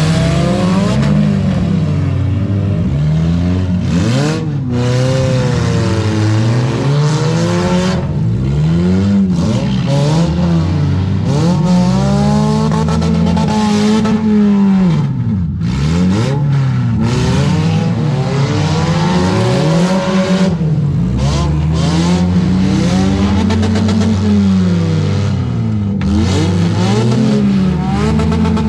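Demolition derby cars' engines revving hard, the pitch climbing and falling over and over, with several engines going at once.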